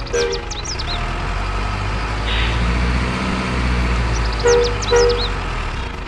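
Truck engine running with a steady low rumble. Near the start and again about four and a half seconds in come two short horn toots, each time with quick high chirps.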